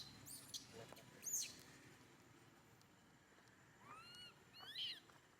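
Baby monkey giving short, high-pitched calls: two quick squeaks in the first second and a half, then a few arching, rising-and-falling cries about four to five seconds in.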